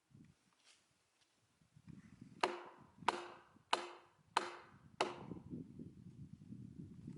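Five quick, sharp chopping strikes into a split oak log, about 0.6 s apart, each with a short ring. A low rustle of handling runs underneath.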